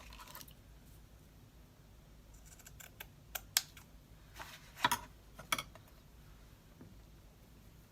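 Craft materials being handled on a worktable: several sharp clicks and short rustles, bunched between about three and six seconds in.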